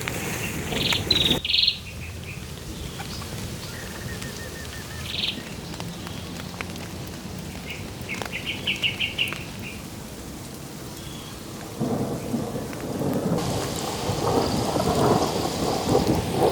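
Steady rain with rolling thunder that swells about twelve seconds in and grows louder toward the end. Short bursts of high bird chirps come through the rain in the middle.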